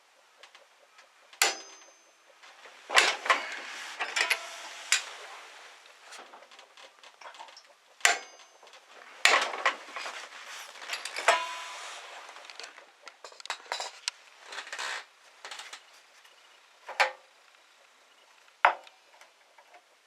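Metal tools and parts clinking and knocking against each other and a hard surface: a dozen or so sharp, irregularly spaced knocks, some with a brief metallic ring.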